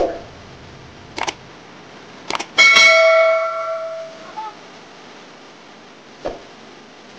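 A few sharp clicks, then a bell-like metallic ring about two and a half seconds in that fades out over a second and a half, and one more click near the end.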